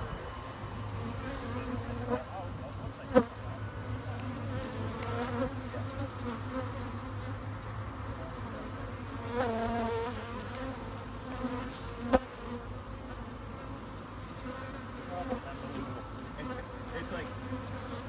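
Steady buzzing of many honey bees flying around close by, with two sharp clicks, the louder one about three seconds in and another about twelve seconds in.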